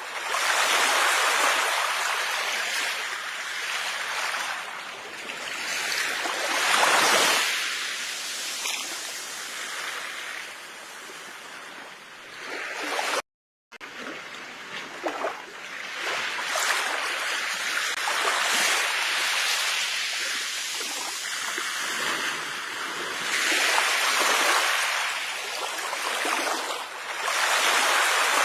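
Sea waves washing onto a shore, a steady hiss of surf that swells and falls back every few seconds. The sound cuts out completely for about half a second near the middle.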